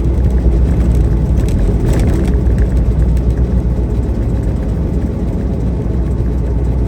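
Semi-truck engine and road noise while driving: a steady low rumble.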